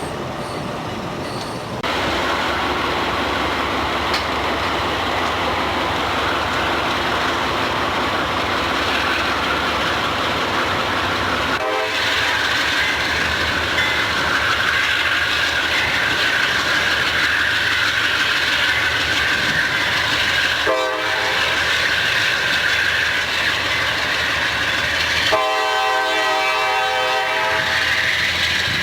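Freight train rolling past, with a steady high wheel squeal from about twelve seconds in. A locomotive horn sounds two short blasts and then a longer one of about two seconds near the end.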